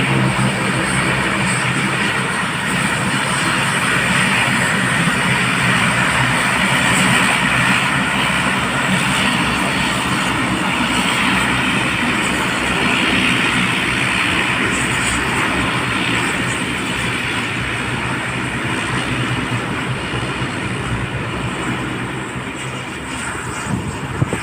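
Airplane engines running loudly and steadily, a dense continuous noise that slowly fades toward the end.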